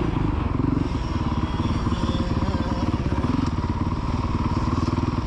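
Motocross dirt bike engine running at steady revs, a fast even firing pulse.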